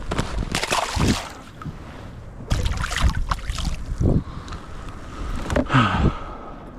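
Water and wind noise on a fishing kayak: bursts of rushing noise, three of them, over a steady hiss.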